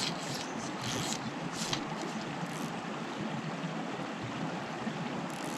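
Rainforest stream running: a steady rush of flowing water, with a few short high hisses in the first couple of seconds.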